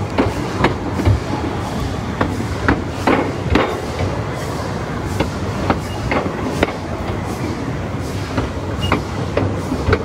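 Narrow-gauge train running along the track: a steady low rumble with irregular clicks and knocks from the wheels over the rail joints and the rattling of the car.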